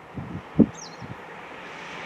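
A few low thumps, the loudest about half a second in, with a single short bird chirp, over the faint rumble of an approaching train that grows louder toward the end.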